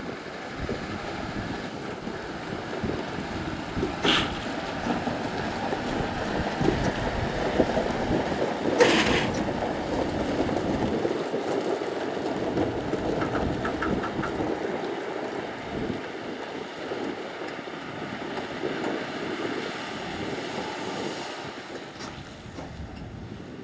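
Heavy diesel machinery at work, with an excavator and dump trucks running. Two brief sharp noises stand out, about four and nine seconds in.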